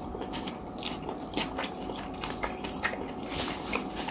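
A person chewing a close-miked mouthful of oil rice with salad vegetables: irregular small crunches and wet mouth clicks.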